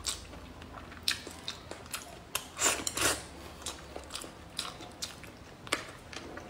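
Close-miked chewing of a mouthful of food, with many short wet mouth clicks and smacks and a louder stretch of chewing about two and a half to three seconds in.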